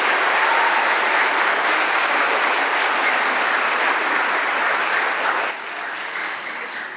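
Audience applauding, dying down about five and a half seconds in.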